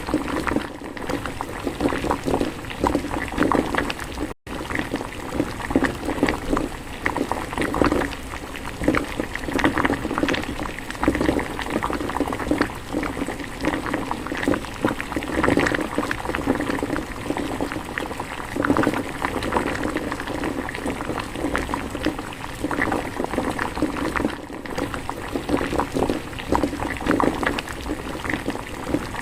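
Spicy pork-bone soup boiling hard in an earthenware ttukbaegi pot: a steady, dense bubbling and popping, cutting out for an instant about four seconds in.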